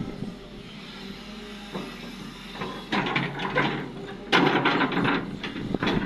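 Cat 330D excavator engine running steadily, then from about three seconds in a loud clatter and rattle of quarry rock, heaviest a little past four seconds, as the excavator loads waste rock.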